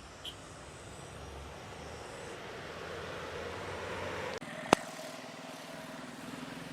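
Jet airliner engine roar, growing steadily louder, then cut off abruptly about two-thirds of the way through. A single sharp click follows, and after it a quieter steady hum.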